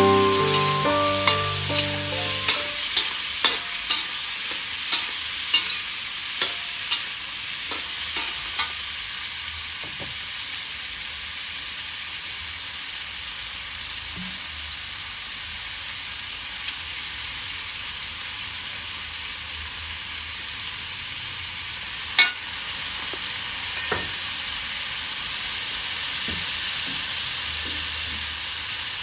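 Pineapple chunks and pork frying in oil in a wok, a steady sizzle. A metal spatula taps and scrapes against the pan in a regular run of clicks over the first nine seconds, and there is one sharp knock a little over two-thirds of the way through.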